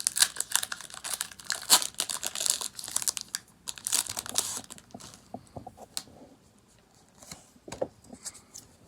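Foil wrapper of a Pokémon trading-card booster pack crinkling and tearing as it is ripped open. The crinkling is dense for about five seconds, then gives way to fainter rustles and clicks.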